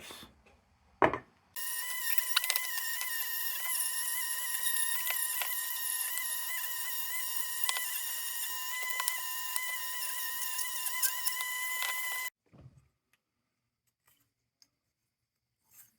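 Dremel rotary tool running at high speed for about ten seconds, a steady whine whose pitch wavers slightly as the work is pressed against the bit. It starts and cuts off abruptly.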